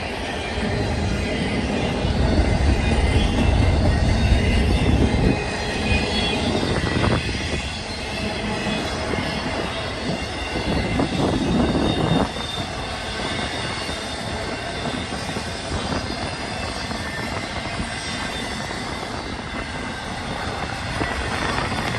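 Freight train of empty intermodal flatcars rolling past, its wheels clattering and rumbling steadily on the rails, loudest a few seconds in and swelling again about halfway through.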